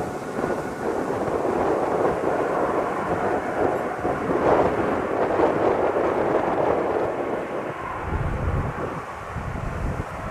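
Jet airliner engines running in a steady noisy rumble, mixed with strong wind buffeting the microphone, which comes in low gusts near the end.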